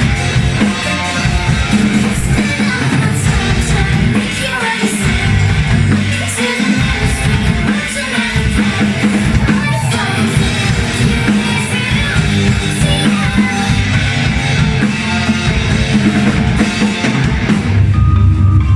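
Live rock band playing: drum kit, bass and guitars with a voice singing.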